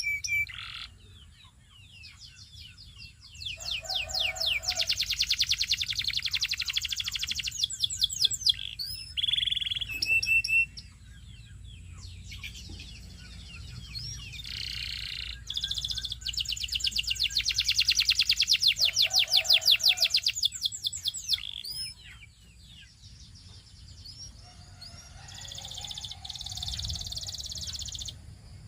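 Domestic canary singing: two long, very fast trills of rapidly repeated notes, each several seconds long, between shorter whistled notes and phrases.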